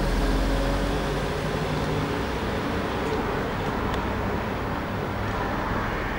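Volkswagen Tiguan's turbocharged petrol engine running as the car pulls away and drives off, its low rumble loudest at first and easing a little as it moves away.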